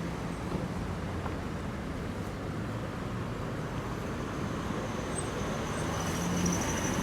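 Street traffic: the steady noise of passing cars and buses with their engines humming, getting a little louder near the end. A thin high whine joins in about halfway through.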